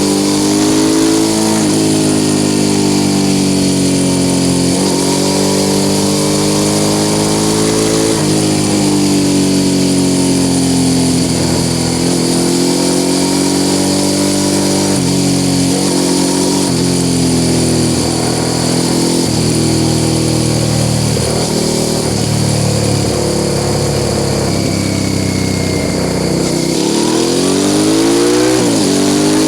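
Suzuki SV650 S V-twin engine breathing through a Mivv aftermarket exhaust, heard from on board while riding. It pulls up through the revs and drops back at each gear change, several times, and climbs sharply again near the end.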